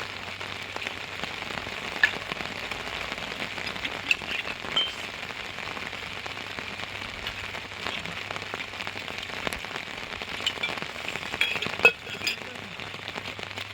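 Steady rain falling and pattering on surfaces, with scattered close drips ticking. A sharper tap about two seconds in and a louder one near the end stand out.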